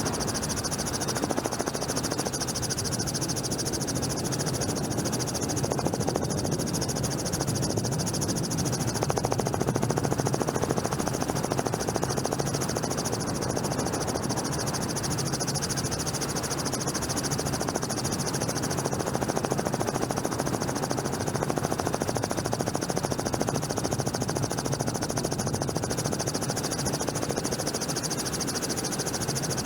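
Helicopter's rotor and turbine running steadily, heard from on board as an even drone with a low hum and a high whine.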